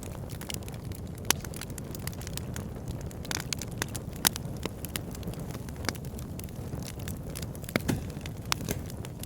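Wood fire burning in a fireplace: a steady low rumble of flames with irregular sharp crackles and pops, a few louder ones about a second in and about four seconds in.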